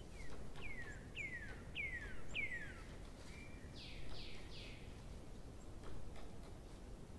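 A bird singing: five clear whistles, each sliding down in pitch and each louder than the last, then a short flat note and three quick, noisier notes.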